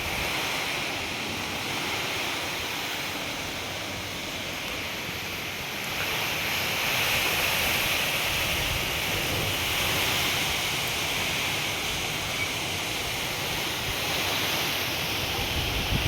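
Steady rush of running water, growing a little louder about six seconds in.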